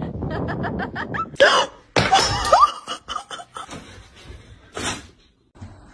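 A person laughing in a quick run of short pulses, then a few louder short vocal sounds. A single sharp click or knock comes near the end.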